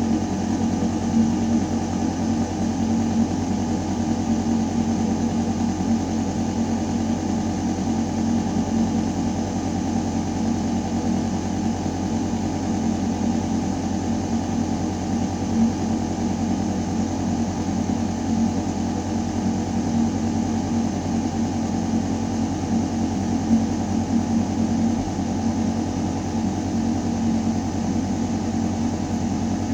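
Building ventilation shaft running: a steady low mechanical hum with a few constant tones over the rush of air moving through metal ductwork.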